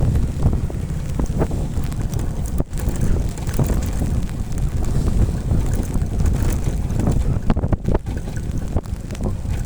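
Heavy wind buffeting on the microphone over a motorcycle engine running, as while riding. The rumble is loud and rough throughout, with a couple of brief dropouts.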